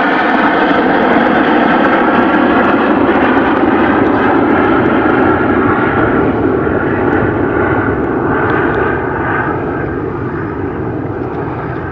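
Jet aircraft engines running: a loud rushing noise with a whine of several steady tones over it, getting gradually quieter over the last few seconds.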